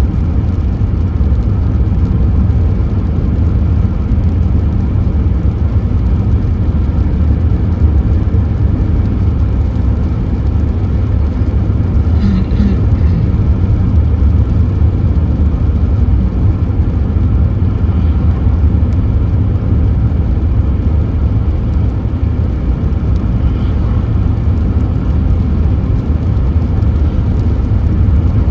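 A steady, loud low rumble, like the running noise of a moving vehicle, unchanging throughout, with a brief faint higher sound about twelve seconds in.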